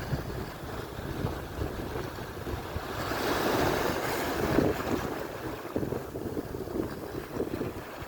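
Atlantic surf breaking and washing up the shore, with one wave swelling louder about three seconds in. Wind buffets the microphone with low rumbling gusts.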